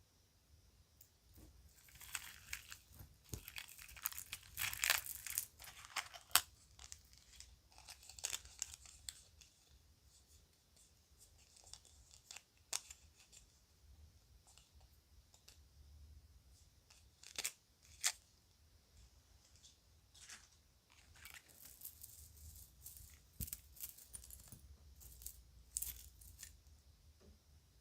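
Rustling and crinkling of a bag being handled in bouts, with two sharp clicks close together about two-thirds of the way through.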